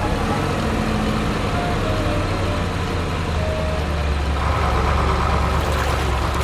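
Heavy vehicle engine running steadily with a low, even sound that cuts off suddenly near the end.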